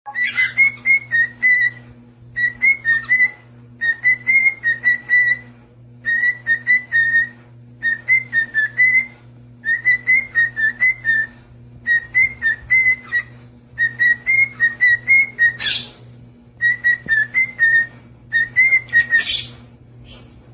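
A pet bird chirping and whistling in about ten quick repeated phrases of rapid high notes, over a steady low hum.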